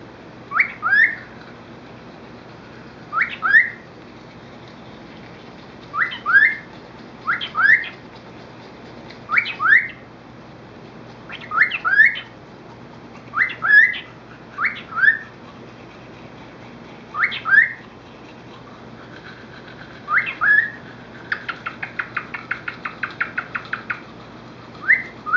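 Cockatiel whistling: about ten quick two-note phrases, each note a short upward sweep, repeated every two to three seconds, then a fast run of short chirped notes near the end.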